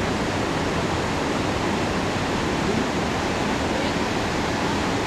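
Rhine Falls, a large waterfall, with its rushing water making a loud, steady, unbroken roar.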